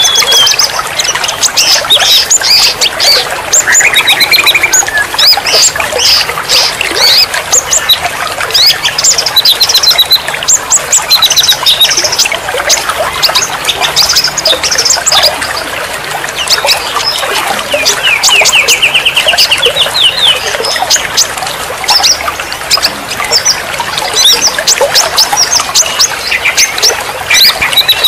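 A dense chorus of songbirds chirping, whistling and trilling over one another, with a fast run of rapidly repeated notes about two-thirds of the way through, over a steady hiss of running water.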